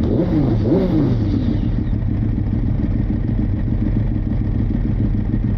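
Motorcycle engine running steadily at idle, with a few quick rises and falls in pitch in the first second or so, like throttle blips.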